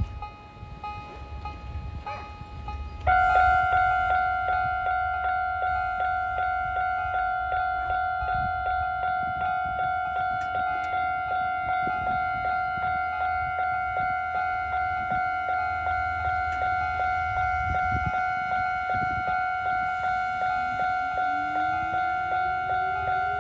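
Japanese level-crossing warning bell ringing in an even, fast pulse, which signals that a train is approaching. It is faint at first, then starts loud and close about three seconds in. Near the end a rising whine joins it.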